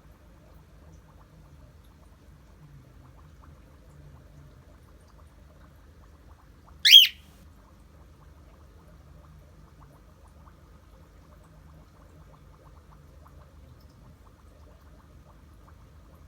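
A cockatiel gives a single short, loud flock call about halfway through, a shrill squawk-whistle; otherwise only a faint low hum.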